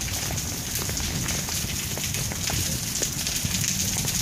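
Heavy downpour: a steady hiss of rain falling on a wet stone-paved street, with scattered faint drip clicks and a low rumble underneath.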